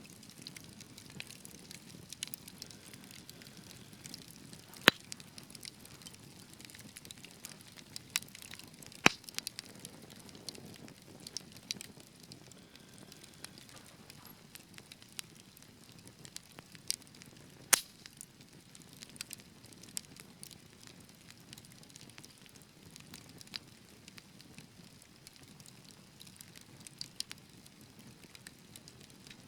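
Wood fire burning in a fireplace: a soft low rumble of flames with irregular sharp crackles and pops, a few louder snaps about 5, 9 and 18 seconds in.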